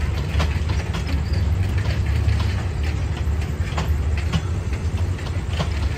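Passenger coaches of a long diesel-hauled train rolling past, with a steady low rumble and scattered sharp clacks from the wheels on the rails.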